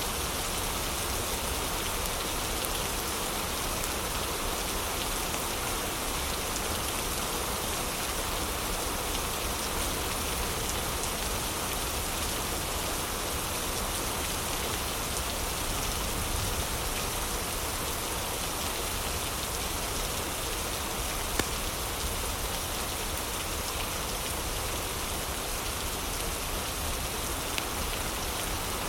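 Steady heavy rain, an even unbroken hiss of falling rain, with two brief sharp ticks, one about two-thirds of the way through and a smaller one near the end.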